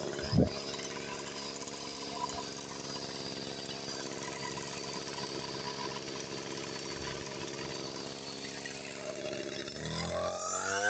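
Brush cutter engine idling steadily, then revving up near the end as the throttle opens. A brief thump comes just after the start.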